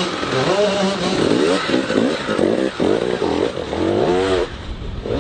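Several motocross bikes revving hard, their engine notes repeatedly rising and falling as they accelerate and back off. The engines fade about four and a half seconds in.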